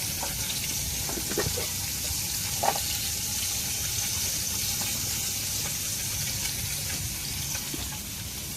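Seasoned food sizzling steadily in a frying pan, with a couple of light clicks about a second and a half and nearly three seconds in.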